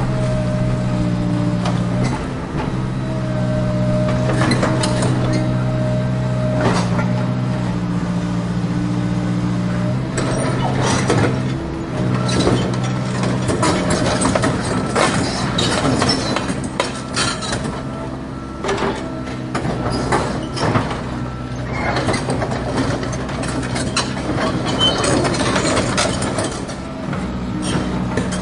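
Remote-control toy excavator's motors humming steadily, the hum shifting and restarting several times, with many clicks and scrapes of the bucket working the soil in the second half.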